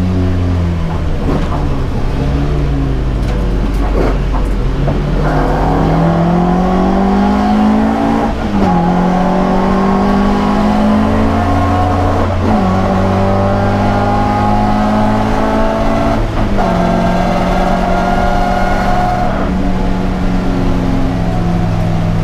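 Alfa Romeo Giulia Ti racing car's twin-cam four-cylinder engine, heard from inside the cabin, pulling hard through the gears: the revs climb and drop sharply at each upshift, four times, then hold fairly steady near the end.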